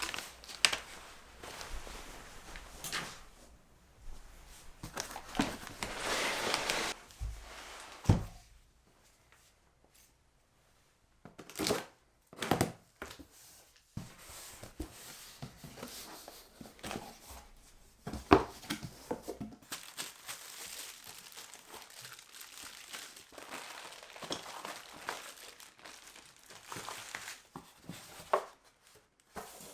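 Packaging being handled: crinkling and rustling in irregular bursts, with a few sharp knocks and a near-silent pause about a third of the way in.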